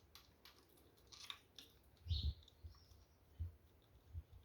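Faint clicks and a few low, dull knocks of motorcycle engine parts being handled during disassembly, with a short high chirp about two seconds in.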